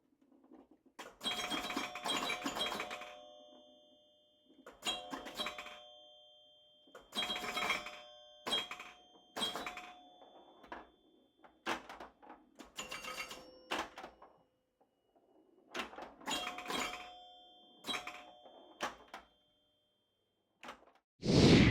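A run of bell-like chimes, about ten of them, each a sharp strike that rings on and fades, coming every second or two. Near the end comes a louder whoosh.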